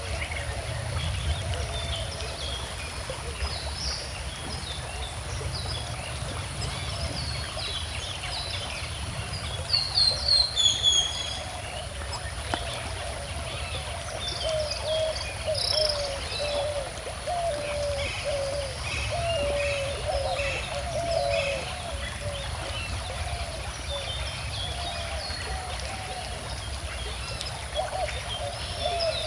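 Several birds chirping and singing over the steady low rush of a flowing river, with a louder burst of high calls about ten seconds in.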